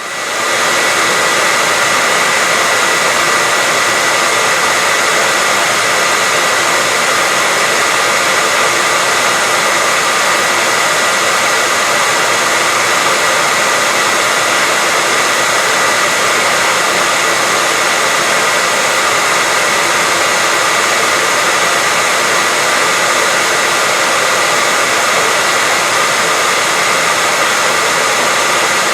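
Hair dryer running continuously: a steady rush of blown air with a thin, high, steady whine through it, fading in over the first second and then holding level.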